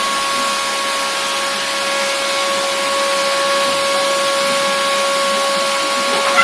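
Vacuum cleaner running steadily: a constant motor whine over an even rushing hiss.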